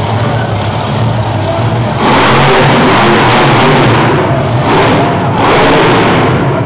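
Monster truck engine at full throttle: a lower running sound, then from about two seconds in loud, long bursts of revving that cut off briefly twice, with music playing along.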